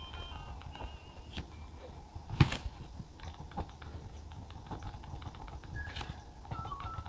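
Desk and stationery sounds of writing by hand: a scatter of small pen taps and clicks on paper, with one sharper knock on the desk about two and a half seconds in.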